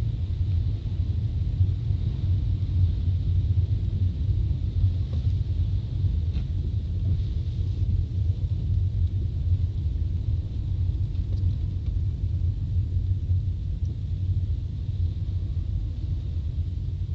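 Steady low rumble of a car driving on a road, heard from inside the cabin.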